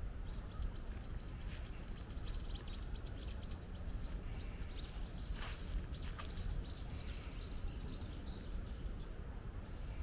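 Small birds chirping in a quick series of short, repeated high notes, several a second, over a steady low rumble of wind.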